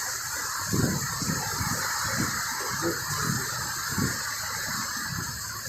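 Steady hiss of heavy rain, with irregular low rumbles under it.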